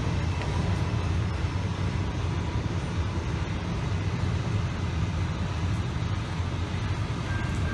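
Low, steady rumble of a diesel train's locomotives and cars moving off, with a faint steady tone coming in near the end.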